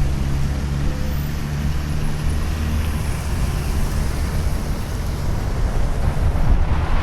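Wind rushing over the microphone of a moving bicycle, with a steady low rumble underneath.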